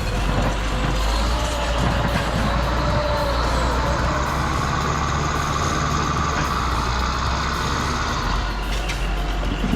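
Heavy diesel engine of a forestry machine running steadily under load, with a deep rumble and a high whine over it.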